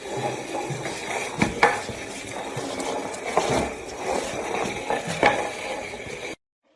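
Several sharp knocks and clinks over a steady background noise, two close together about a second and a half in, one mid-way and two more near the end.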